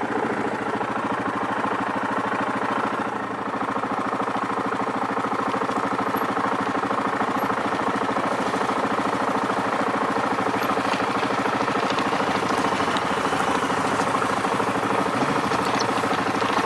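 Yamaha Grizzly 700 ATV's single-cylinder engine running steadily as the quad is ridden along a trail.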